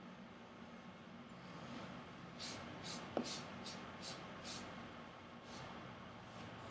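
Faint cloth strokes wiping down a sharpening whetstone: a run of about seven short, soft swishes in the middle, with one small click among them.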